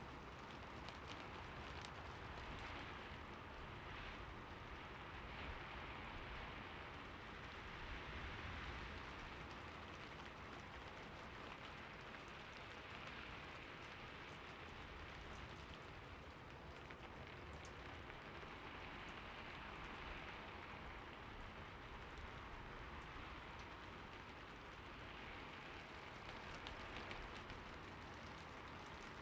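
Steady rain falling: an even, soft hiss with scattered sharp drop ticks.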